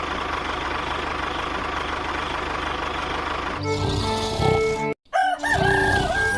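A steady mechanical running noise gives way, about three and a half seconds in, to music, and a rooster crows near the end.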